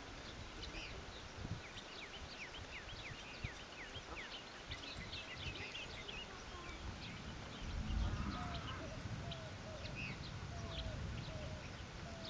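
Birds chirping outdoors, many short high chirps that sweep downward, with a lower run of short slurred calls repeating in the second half. A low rumble swells about eight seconds in.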